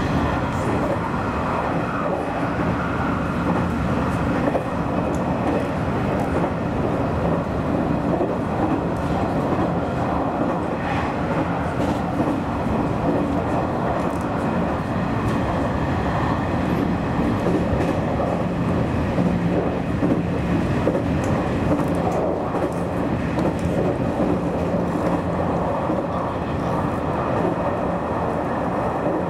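Nishitetsu electric express train running on the line, heard from inside the front cab: a steady rumble of motors and wheels on rail, with a few sharp clicks from the wheels going over the track.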